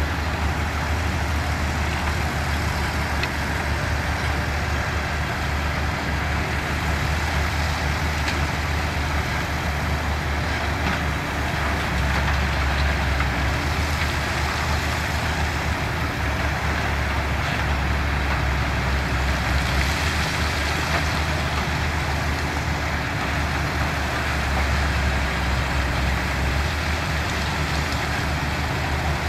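Diesel engines of heavy earthmoving machinery running with a steady deep rumble, swelling a little about twelve seconds in and again near the end.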